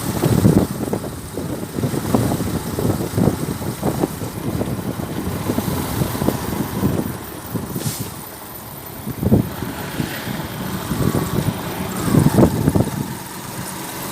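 Motor vehicle running, with uneven low rumbling and knocks that come and go throughout.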